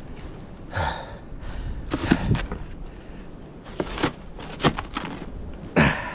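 A man breathing hard from exertion, with a few sharp knocks and scrapes in between.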